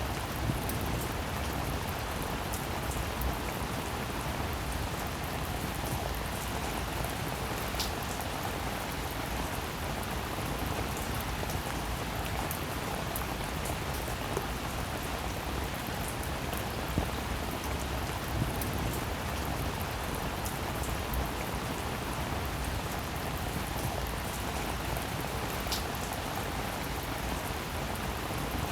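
Rain falling steadily: an even hiss with many small, scattered drop sounds.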